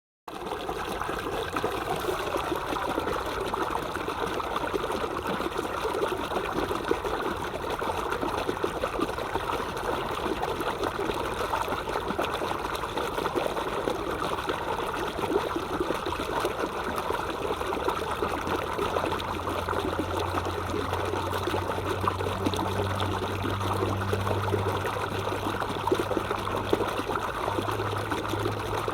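Water of a stream trickling and babbling steadily, an even rushing with fine splashy texture. A low steady hum joins underneath a little past the middle.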